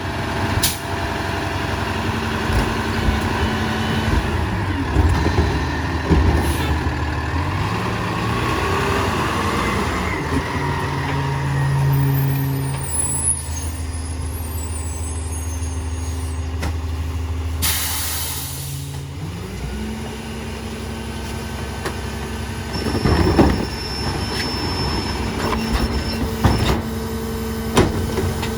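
Diesel engine of a Peterbilt 348 rear-load garbage truck running, its speed stepping up and down several times. An air-brake hiss comes about two-thirds through, and metal clanks follow near the end.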